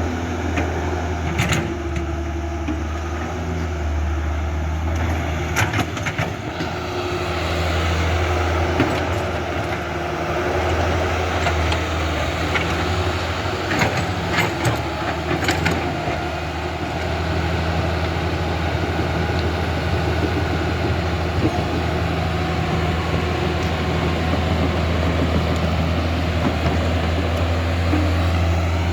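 Electric motors and gearboxes of a Huina 1550 radio-controlled excavator running steadily with a low hum, broken by a few sharp clicks.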